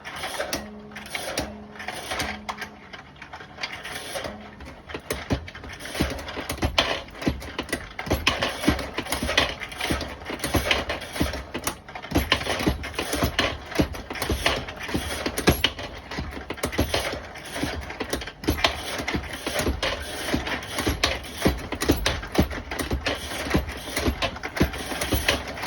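3D-printed bullet feeder running, with bullets clicking and rattling in it in a dense stream, along with the knocks of a Lee APP press sizing bullets. A low hum sounds for the first few seconds.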